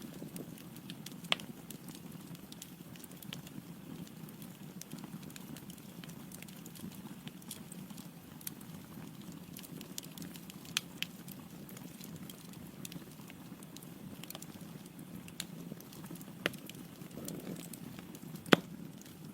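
Wood fire burning in a fireplace: a steady low rush of flames with scattered crackles and several sharp pops from the burning logs, the loudest pop near the end.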